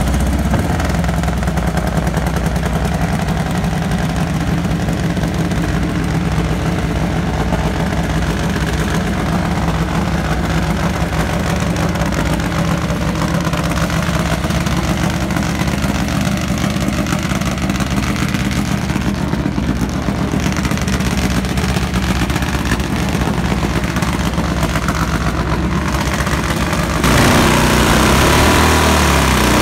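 Nitro Harley drag bike's nitromethane-burning V-twin running at a steady idle. Near the end it is revved up louder, as the burnout starts.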